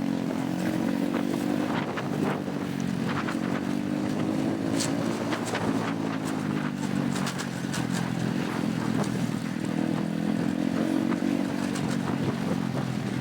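Motorbike taxi engine running under way, its pitch rising and falling gently as the speed changes, with scattered light rattles and ticks.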